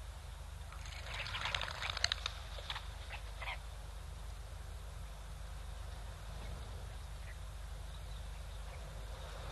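Wind rumbling steadily on the microphone. About a second in, a short run of harsh, raspy animal calls lasts two to three seconds.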